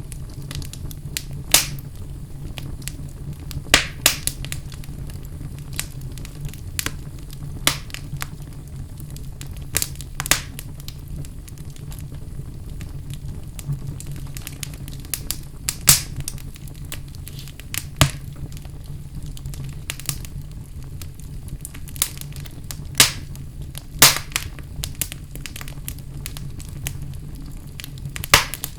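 Wood fire burning in a fireplace: a steady low rumble of flame with sharp, irregular crackles and pops every second or two.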